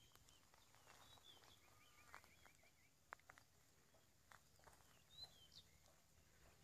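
Near silence with faint birds chirping and trilling at intervals, and a few soft clicks about three seconds in.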